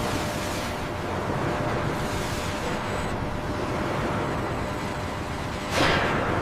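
Steady rushing machinery noise with a low hum, and a brief louder whoosh near the end.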